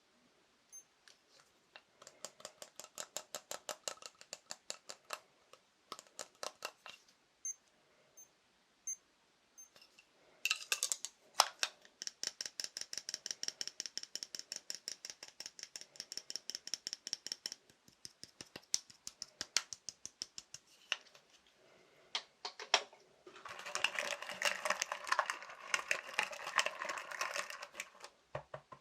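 Fast fingertip tapping on assorted small objects, in quick runs of sharp taps with short pauses between. Through the middle stretch each tap rings with a high tone, and near the end the tapping turns denser and scratchier.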